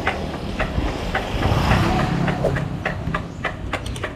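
Bicycle being ridden on a road: a steady low rumble with sharp, irregular rattling clicks, about two or three a second.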